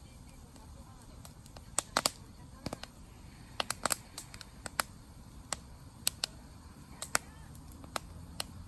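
Campfire crackling: wood burning with irregular sharp pops and snaps, about two a second and sometimes in quick clusters, over a steady low hiss of the flames.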